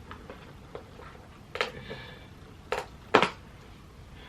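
A few sharp clicks and knocks, the loudest about three seconds in, with a faint short high-pitched whine about two seconds in.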